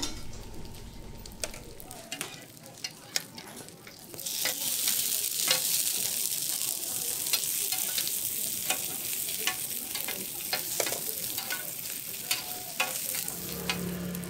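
Pan-fried buns frying in oil in a large cast-iron pan: scattered pops and crackles at first, then about four seconds in a loud, steady sizzle sets in and holds, still dotted with sharp pops.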